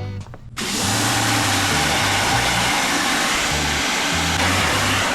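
Water spraying: a steady rushing hiss that starts suddenly about half a second in, over background music with a bass line.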